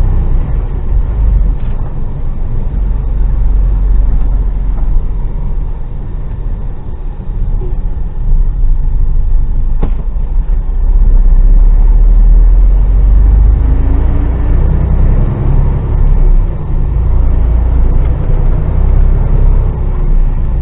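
Diesel lorry engine running while the HGV drives on, a steady low rumble that grows louder about ten seconds in, with a single sharp click just before.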